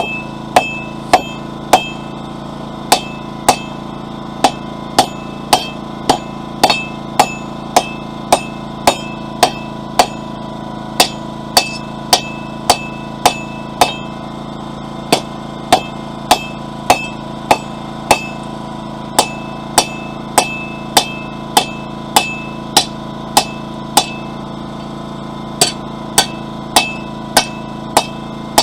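Forging hammer striking hot mild steel on an anvil in a steady rhythm of about two blows a second, with a few short pauses, each blow leaving a brief metallic ring. A generator drones steadily underneath.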